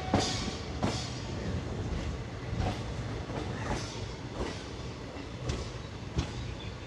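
Express train rolling slowly into a station, with a steady low rumble and sharp wheel clacks over rail joints and points, spaced unevenly about a second apart.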